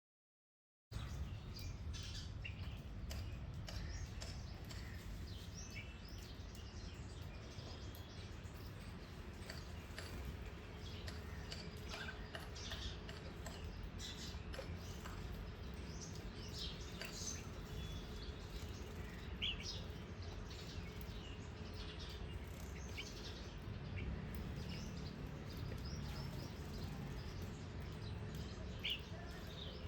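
Small garden birds chirping, with many short high calls scattered throughout, over a steady low background rumble. The sound cuts in suddenly about a second in, out of complete silence.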